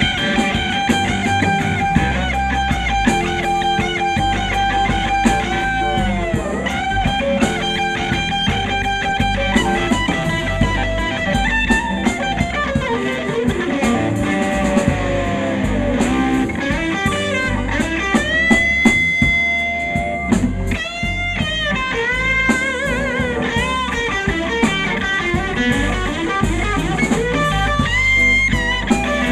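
A live blues band playing an instrumental passage: an electric guitar solos with bent notes and long held notes over bass and a drum kit.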